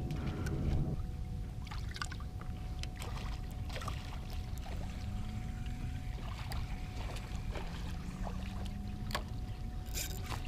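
Small fishing boat on open water: a steady low rumble with scattered small clicks and knocks, and a faint steady whine. A low hum stops about a second in.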